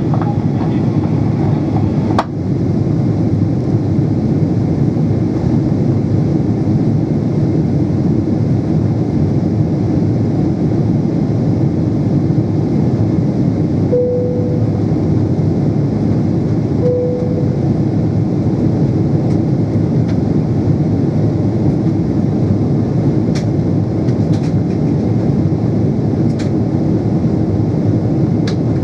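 Steady engine and airflow noise inside the cabin of a Boeing 777-300 airliner. A click comes about two seconds in, and two short soft tones sound about three seconds apart midway.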